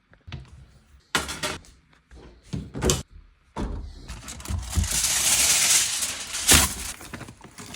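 Kitchen preparation noises: a few knocks and clatters, then a steady hiss lasting about three seconds with a sharp knock near its end.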